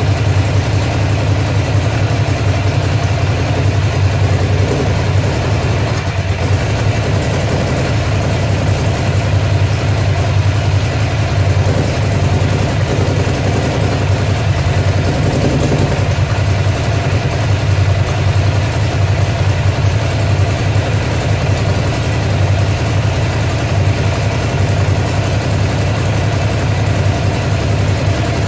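Ducati Monster's air-cooled L-twin engine idling steadily; the bike has an engine misfire problem.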